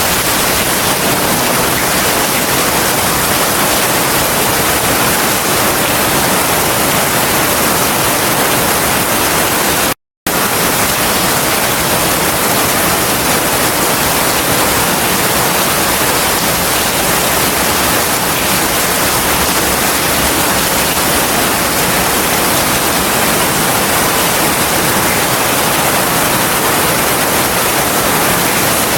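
Heavy rain falling steadily as a dense, even hiss. It cuts out completely for a split second about ten seconds in, then resumes unchanged.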